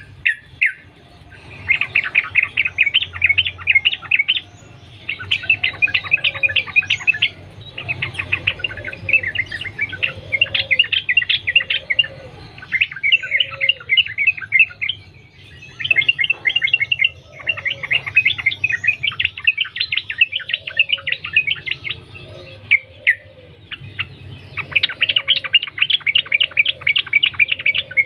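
Yellow-vented bulbul singing: repeated bouts of rapid chattering notes, each lasting a second or three with short breaks between, over lower short notes.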